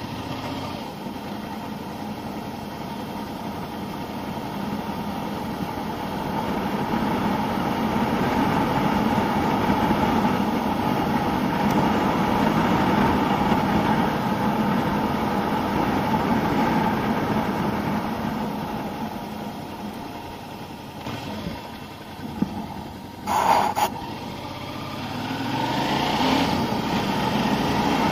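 Suzuki SV650N's 645 cc V-twin engine running under way at street speed, mixed with wind and road noise. The engine note eases off a little past two thirds of the way in, a brief louder noise breaks in, and then the revs climb again near the end as the bike accelerates.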